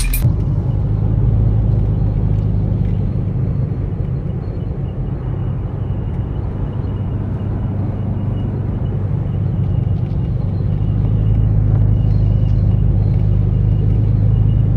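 A car driving along: a steady low engine and road rumble with a constant hum, growing slightly louder near the end.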